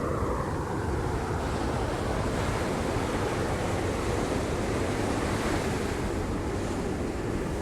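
Sea surf washing against rocks: a steady, dense rushing of waves with a deep rumble underneath, with some wind noise on the microphone.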